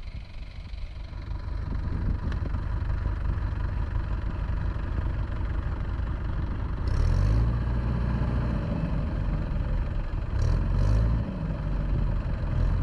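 Diesel tractor engine running under load, louder over the first couple of seconds, with two surges of power about seven and ten and a half seconds in, as it works to pull a tractor stuck in mud free.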